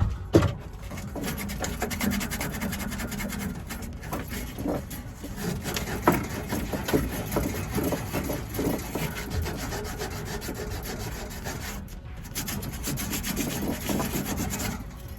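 Repeated hand scraping and rubbing on a hard surface, with scattered clicks and knocks and a short pause about twelve seconds in.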